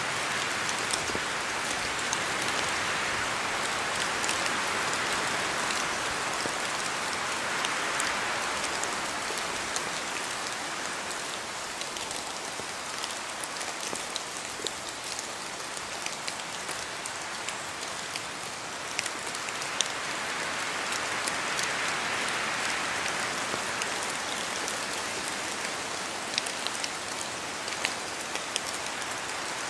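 Steady rain falling on forest trees, with many close drops ticking sharply on leaves. The hiss of the rain and wind swells twice and eases off.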